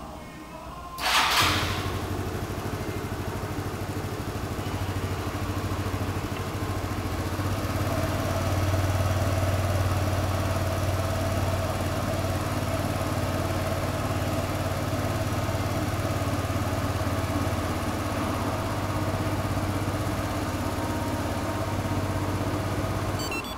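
Yamaha Cygnus X scooter's single-cylinder engine started by the VIPER security system's remote engine starter: a short loud burst of cranking as it catches about a second in, then a steady idle that cuts off suddenly near the end.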